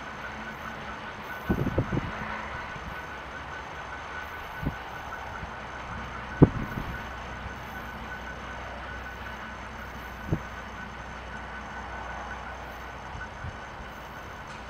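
Freight train wagons rolling away in the distance, a steady low rumble with a faint high ringing tone. A few short low thumps break it, the loudest about six seconds in.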